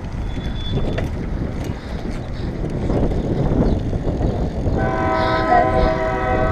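A constant low rumble, then a horn sounds a long, steady chord of several tones from about five seconds in.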